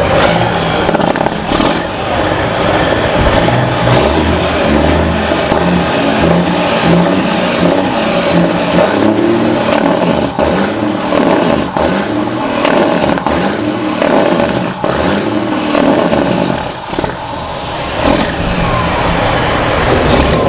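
Semi-truck diesel engines running, with revving that rises and falls in pitch through the middle.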